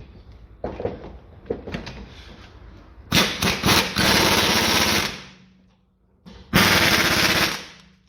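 Air-powered wrench hammering in two runs, tightening the brake caliper bolts: a few short blips then a run of about two seconds, and another of about a second near the end, with light metallic knocks from the parts being handled beforehand.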